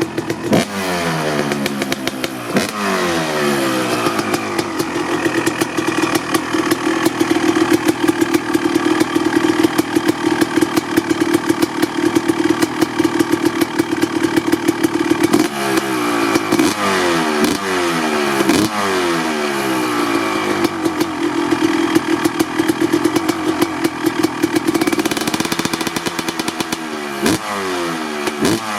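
Honda CR250R single-cylinder two-stroke engine being revved while it warms up after a cold start. The throttle is blipped several times, with the revs falling back after each blip, near the start, about halfway and near the end. In between, the engine holds a steady fast idle.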